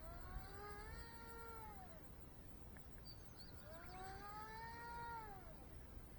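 Small brushless electric motor and 3-inch propeller of a lightweight RC model plane whining in the air, faint. The whine rises and then falls in pitch twice, each swell lasting about two seconds.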